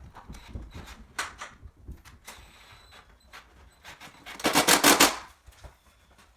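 A short burst of rapid rattling clicks, about two thirds of a second long, about four and a half seconds in, after a few scattered light knocks.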